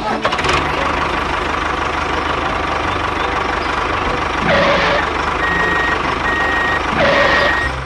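A vehicle engine running steadily while a reversing alarm beeps, three short high beeps in the second half. Two brief hissing swells come about halfway through and near the end.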